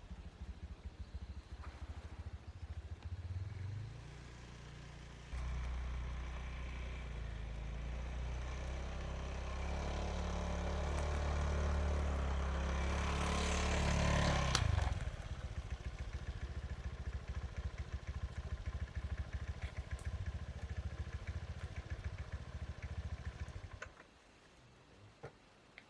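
A small engine running: it builds up and gets louder for a few seconds, drops back suddenly about halfway through, runs on, then cuts out shortly before the end.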